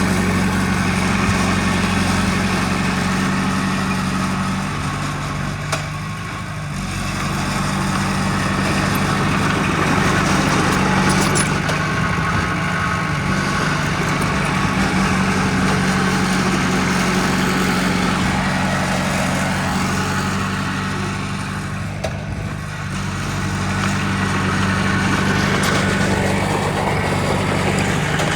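Diesel engine of heavy earthmoving machinery running steadily, easing off briefly twice, about a quarter of the way in and again about three quarters in, then building back up.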